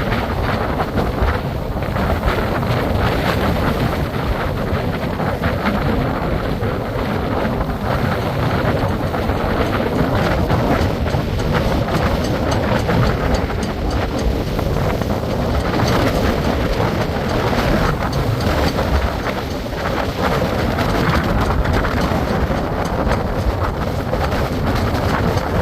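Strong tropical-storm wind buffeting the microphone: a continuous, loud rush of noise heaviest at the low end, with constant gusty flutter.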